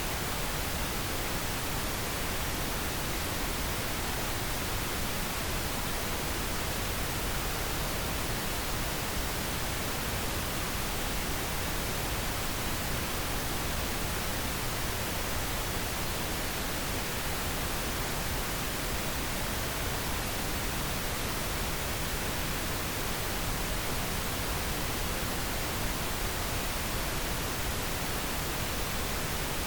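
Steady synthetic pink noise: an even, unchanging hiss across the whole range of pitch.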